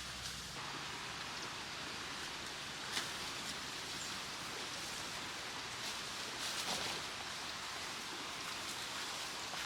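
Steady rain falling, with a single sharp tap about three seconds in.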